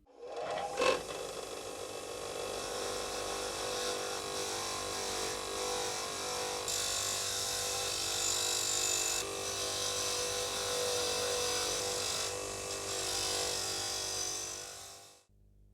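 A small electric power tool running steadily on metal, with a motor hum under a hiss that grows stronger from about seven seconds in; a knock just under a second in, and the sound stops about fifteen seconds in.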